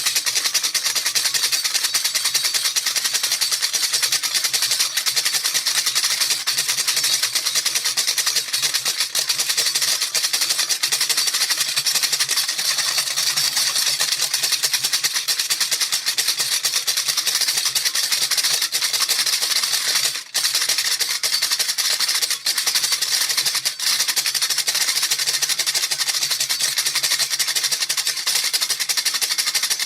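A baby rattle shaken rapidly and continuously, its beads making a dense, bright, hissy rattle, with a brief break about twenty seconds in.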